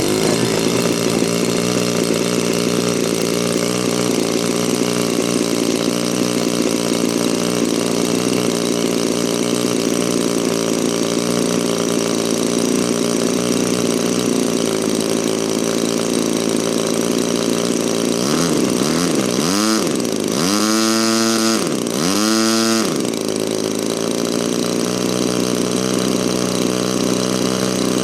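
A DLE 35RA single-cylinder two-stroke gasoline model-airplane engine running steadily at low throttle, then throttled up and back down twice near the end, its pitch rising and falling each time before it settles back to idle.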